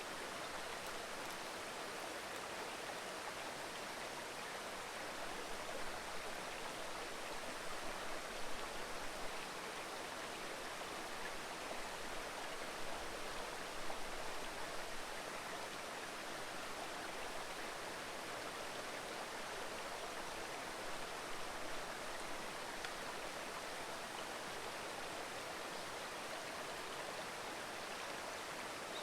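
Shallow mountain stream babbling steadily over rocks, an even rush of running water. A few brief low swells in level come through about a quarter and halfway in.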